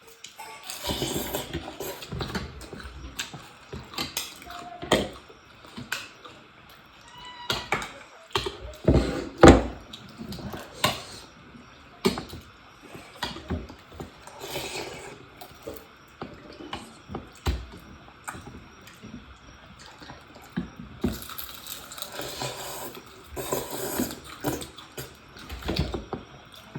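Close-up eating sounds at a meal of chicken legs and thukpa noodle soup: irregular clicks, clinks and knocks of utensils and dishes mixed with chewing. The loudest knock comes about nine seconds in.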